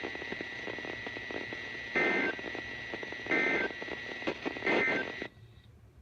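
Emergency Alert System end-of-message over a weather radio broadcast: three short bursts of shrill data tones about a second and a half apart over steady radio static, marking the end of the flash flood warning. The signal cuts off shortly after the third burst.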